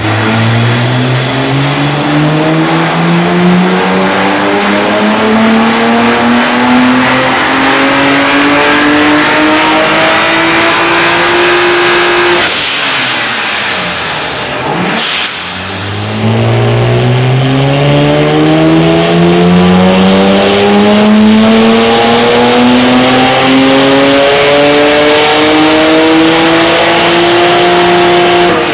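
BMW 135i's twin-turbo 3.0-litre inline-six, on catless downpipes and a cat-back exhaust, making two full-throttle dyno pulls: each time the engine note climbs steadily for about twelve seconds. Between the pulls the revs drop away, with a short rush of air as the throttle closes about halfway through, and they fall again at the very end.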